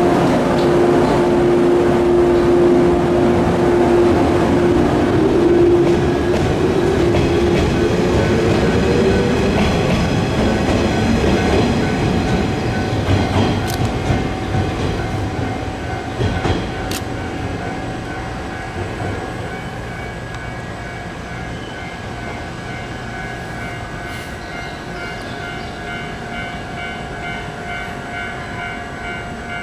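Electric train moving in a station. A strong steady whine bends in pitch about five seconds in over a rumbling run, then the sound fades, leaving steadier high tones, with a few sharp clicks around the middle.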